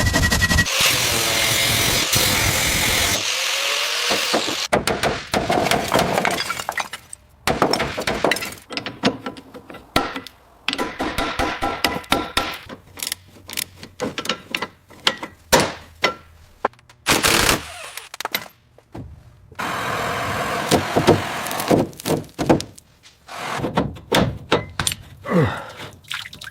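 Hand-tool work on metal and wood: a few seconds of steady scraping or grinding, then a long run of uneven knocks, cracks and thunks.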